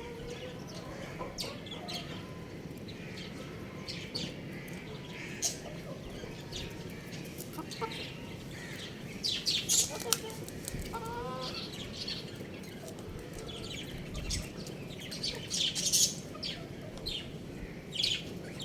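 Young chickens clucking and chirping in short, scattered calls over a steady background noise, with a quick series of clucks about eleven seconds in.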